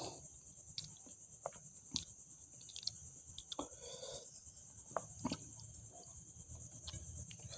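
A person chewing food close to the microphone, with scattered sharp wet mouth clicks, over a steady high hiss.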